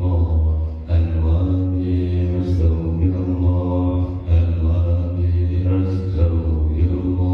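Qur'an recitation chanted from memory in a melodic voice, with long held notes that rise and fall.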